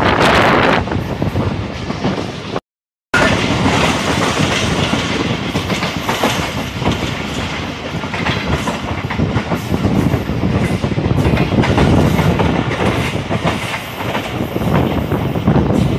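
Millat Express passenger train running at speed, heard from on board: a steady loud rumble of wheels on the rails with rapid clickety-clack over rail joints. The sound cuts out completely for about half a second, about three seconds in.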